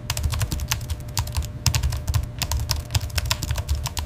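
Fast typing on a computer keyboard: a dense, uneven run of key clicks, several a second, each with a dull low thump.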